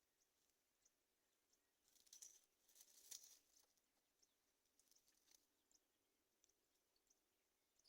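Near silence with faint high ticks, and a brief scratchy crackle about two to three seconds in.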